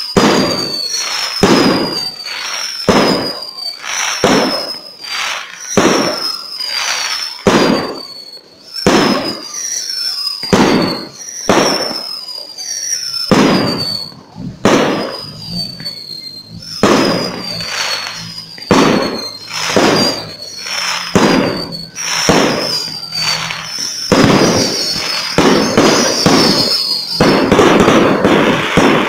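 Fireworks firing and bursting in quick succession, more than one bang a second, each bang followed by a short high whistle that falls in pitch. Near the end the shots run together into a dense volley.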